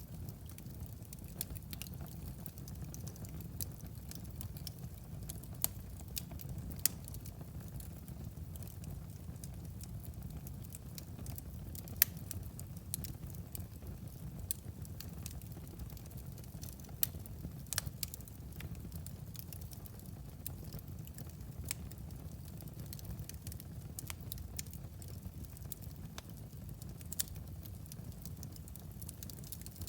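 Fire in a fireplace crackling, with irregular sharp pops and snaps over a low steady rumble. The loudest pop comes about twelve seconds in.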